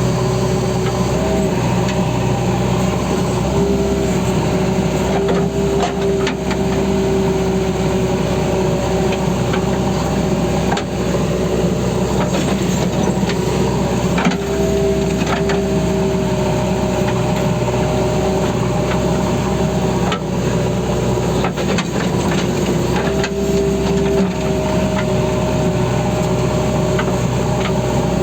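JCB backhoe loader's diesel engine running steadily while working. A higher whine comes and goes several times, and occasional faint knocks sound over it.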